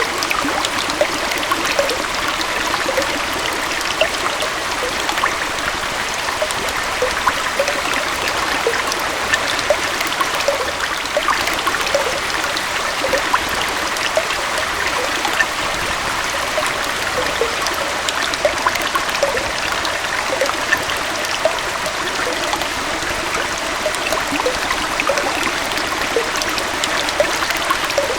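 Small forest waterfall and stream flowing: a steady rush of water with many small splashes and gurgles.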